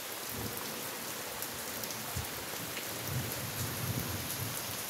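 Steady heavy rain falling on garden plants and the ground.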